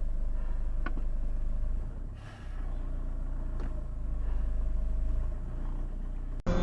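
Steady low rumble of a car on the road, with a couple of faint clicks.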